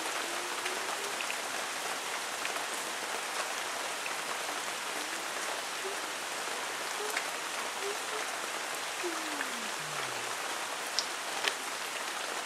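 Steady thunderstorm rain falling as an even hiss, with scattered sharper drop taps, two of them louder near the end.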